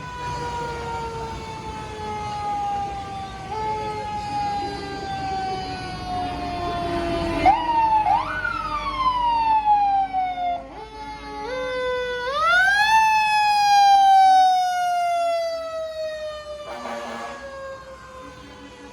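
A fire truck's siren wailing: one long tone that slides slowly down in pitch, is wound sharply back up about eight seconds in and again about twelve seconds in, and each time sinks slowly again.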